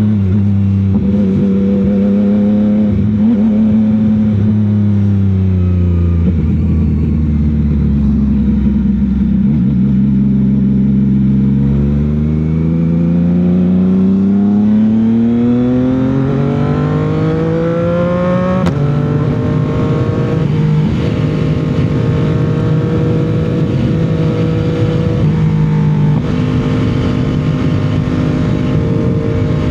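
CFMOTO 675's inline three-cylinder engine and exhaust under way. The revs fall off for several seconds, then climb steadily, with a gear change cutting the pitch about two-thirds of the way through. Another shift comes a few seconds later, then steady cruising, with wind rushing past.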